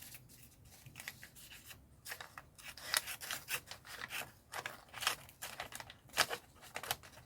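Scissors cutting, a run of short, irregular snips.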